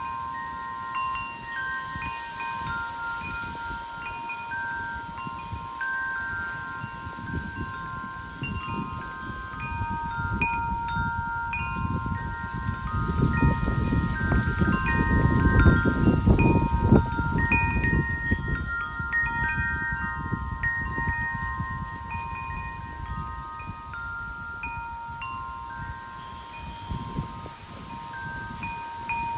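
Wind chimes ringing irregularly as the wind moves them, several clear tones overlapping and dying away. Wind gusts rumble on the microphone, strongest in the middle.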